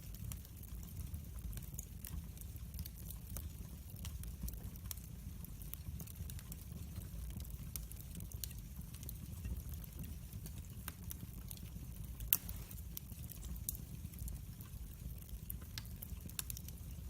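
Wood fire in a fireplace crackling: scattered small pops and snaps over a low steady rumble of the flames, with one louder pop about twelve seconds in.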